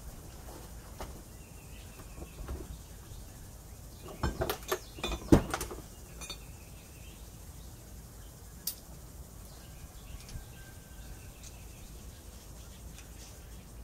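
A quick cluster of metal clanks and knocks about four to five seconds in, with faint bird chirps now and then.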